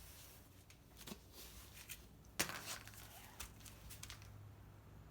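Faint, scattered metallic clinks and knocks as tools and car parts are handled, the loudest about two and a half seconds in.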